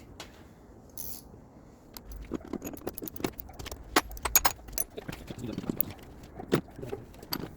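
Small metal objects clinking and jangling: a dense run of sharp light clicks starting about two seconds in and going on until near the end, with a low rumble under the first part.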